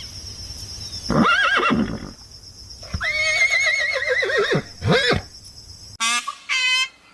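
A horse whinnying: a short call about a second in, then a longer quavering whinny. At about six seconds the sound cuts to a different animal's sharp, repeated calls.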